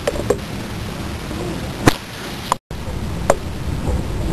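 Steady low rumble of a heritage railway carriage in motion, heard from inside the carriage, with a few sharp, irregular clicks. The sound cuts out for a split second about two and a half seconds in.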